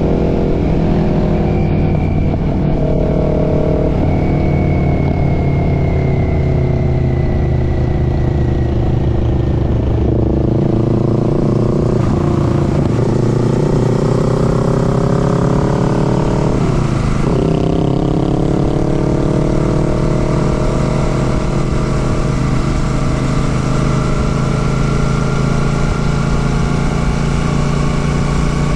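Royal Enfield Classic 650's parallel-twin engine running under way. Its pitch falls and rises as the rider eases off and accelerates, with a quick sharp dip in revs and recovery about two-thirds of the way in.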